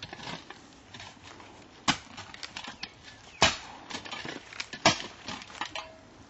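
Digging tool striking hard, rocky ground: three sharp strikes about a second and a half apart, with smaller scraping clicks between them.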